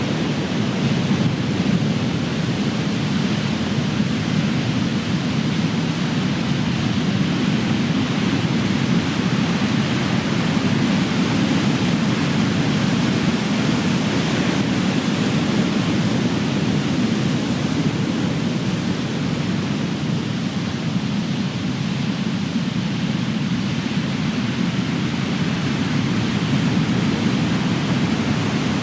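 Big ocean waves breaking: a steady rush of surf that swells and eases slowly.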